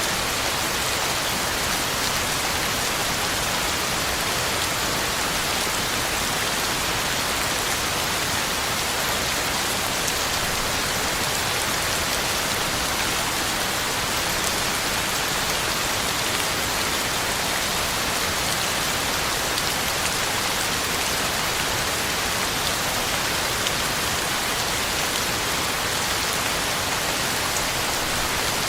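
Heavy rain falling steadily, a dense even hiss of drops hitting the ground and leaves, with no let-up or thunder.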